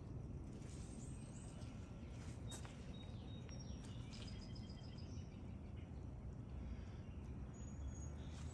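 Faint outdoor ambience: a steady low rumble, with a few short, high bird chirps in the middle.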